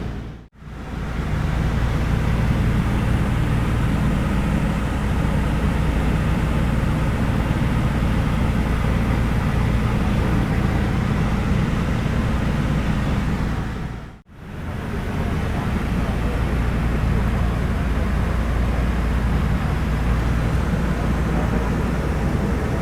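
Steady drone of a Douglas DC-3's twin radial piston engines heard inside the passenger cabin, a deep hum with a rushing layer above it. It breaks off for a moment twice, once near the start and once about two-thirds through.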